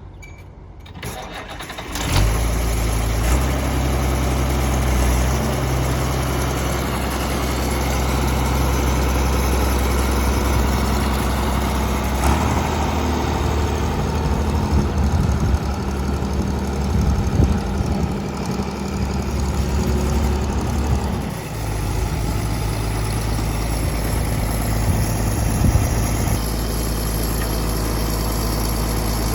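A 1955 Allis-Chalmers WD45's six-cylinder diesel engine starting about two seconds in and settling into a steady run. About twelve seconds in it speeds up, and it drops back to a steady idle after about nine seconds.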